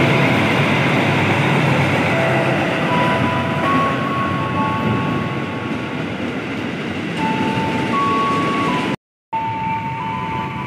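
Passenger train passing through the station at speed: steady wheel and rail noise, with thin high whining tones that come and go. The sound drops out for a moment near the end.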